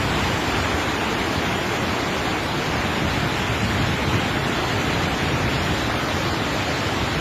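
Steady rushing roar of a flash-flood torrent: muddy floodwater pouring down a wadi in spate after heavy rain.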